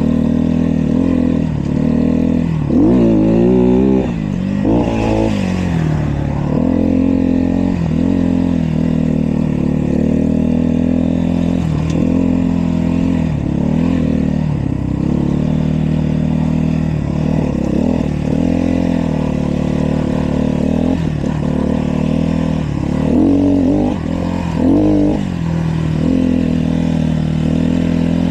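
Dirt bike engine running steadily, with the revs briefly rising and falling several times.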